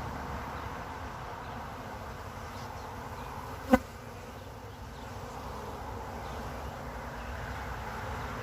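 A swarm of honey bees buzzing in a steady hum around beehives. About four seconds in there is a single sharp knock with a brief ringing tone.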